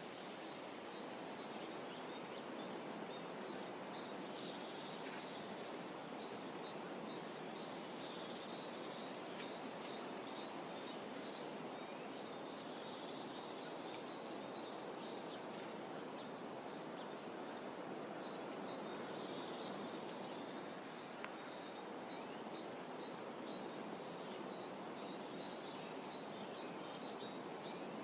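Quiet shoreline ambience: a soft, even wash of gently rippling water, with small birds chirping and trilling over it throughout.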